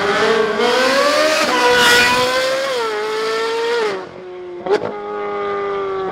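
Supercar engine revving hard as the car accelerates away, its pitch climbing at first, then holding high with a step down about three seconds in. A sharp crack comes about three-quarters of the way through.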